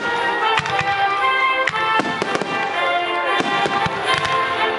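Aerial fireworks bursting, several sharp bangs, with music playing steadily alongside.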